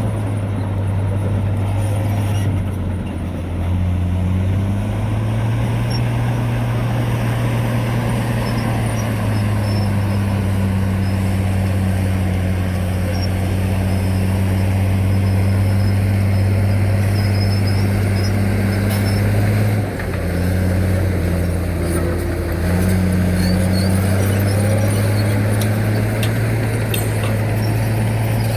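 Heavy diesel engine of earthmoving machinery running steadily. Its pitch dips and recovers twice, about three seconds in and again around twenty seconds, as the load or throttle changes.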